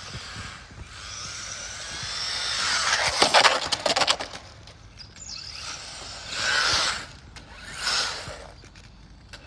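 Small electric radio-controlled cars driving by, their motors whining louder and softer as they pass close and pull away three times. A burst of sharp clicking and rattling comes about three to four seconds in.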